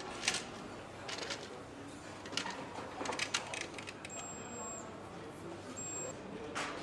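Engine assembly-hall noise: scattered metallic clicks and knocks of tools and parts over a steady hum, with two short high electronic beeps about four and six seconds in.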